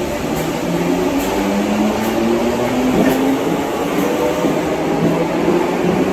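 Merseyrail Class 508 electric multiple unit moving along an underground station platform, its motors giving a low hum of several tones over the steady rumble of wheels on the rails.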